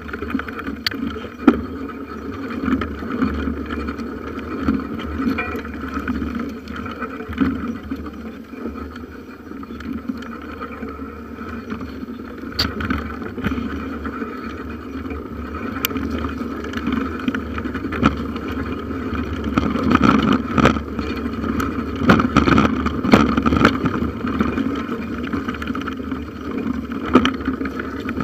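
Bicycle riding over a forest trail, heard through a camera clamped to the handlebars: a steady rumble and rattle from the frame and mount, with frequent small knocks as the wheels hit bumps and sticks. It gets rougher and busier for a few seconds past the middle.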